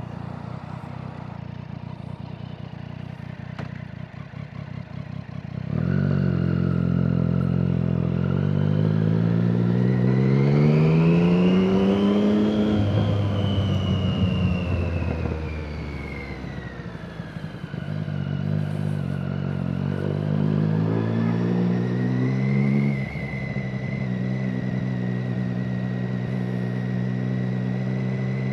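Motorcycle engine ticking over, then pulling away about six seconds in, rising in pitch as it accelerates, easing off, and picking up again to run steadily at low speed.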